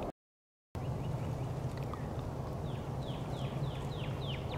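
Outdoor ambience with a steady low hum, cut by a brief dropout to silence just after the start. In the second half a bird sings a quick series of about five falling notes.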